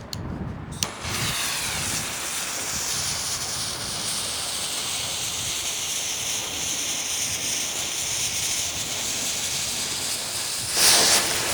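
Blockbuster smoke balls hissing steadily as they burn and pour out smoke, after a short click about a second in. The hiss grows louder near the end.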